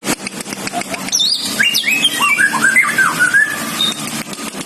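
Samyong songbird singing a run of short whistled notes, each sliding downward in pitch, falling from high to lower notes over about two and a half seconds, with rapid sharp clicks throughout.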